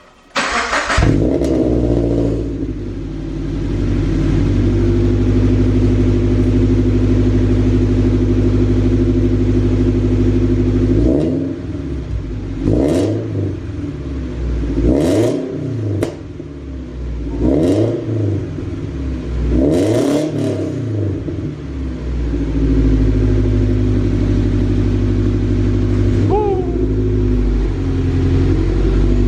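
Toyota GT86's 2.0-litre flat-four boxer engine, breathing through a freshly built custom exhaust, starting up and settling into a steady idle. It is then revved in about five quick blips in the middle, drops back to idle, and gets one more short blip near the end.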